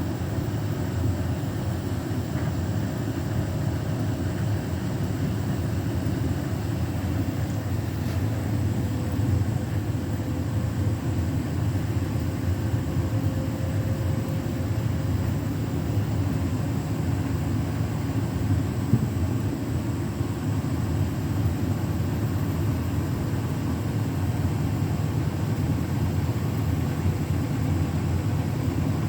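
Beko WTK104121W washing machine spinning its drum at speed: a steady low rumble with a faint motor whine above it.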